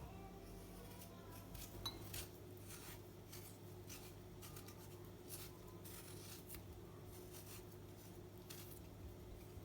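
Faint household handling sounds: scattered light clicks, taps and rubbing, as of utensils or objects being handled, over a steady low electrical hum.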